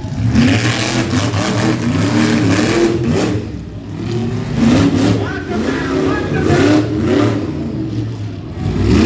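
Mega truck engines revving hard over and over, the pitch sweeping up and down in quick surges as the trucks race over the course.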